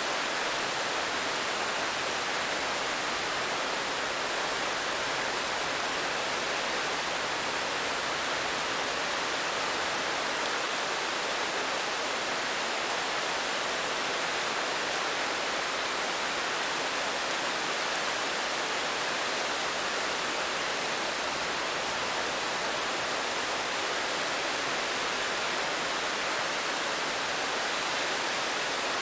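Steady rain, an even unbroken hiss with no single drops or gusts standing out.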